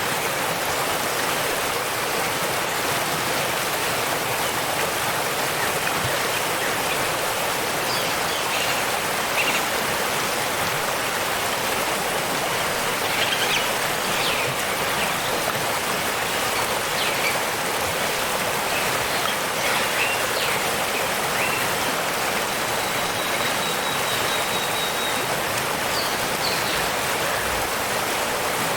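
Waterfall rushing steadily, with short bird chirps scattered over the water noise.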